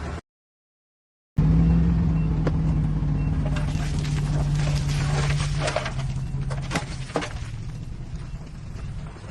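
Heavy diesel engine of a crawler earthmover, such as a Shantui SD13 bulldozer, running steadily under work, with irregular metal clanks and rattles. The audio drops out completely for about a second near the start.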